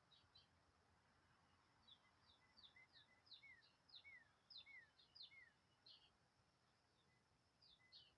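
Faint songbird calls: a scatter of short, high chirps, with a run of four or five short downward-sliding whistled notes about three to five seconds in.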